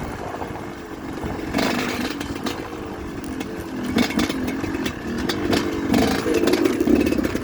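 Dirt bike engine running, its pitch rising and falling with the throttle, with a few sharp knocks and clatters along the way.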